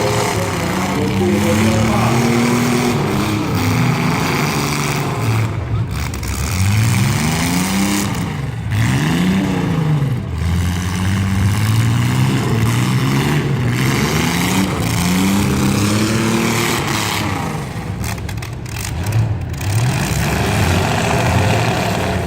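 Several car and truck engines revving up and down over and over in a demolition derby heat, their pitch rising and falling in overlapping sweeps.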